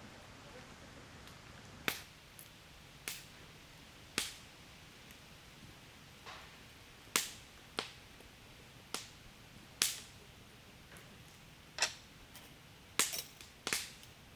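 Burning firewood in a fire pit crackling and popping: about a dozen sharp pops at irregular intervals, several close together near the end, over a faint steady background.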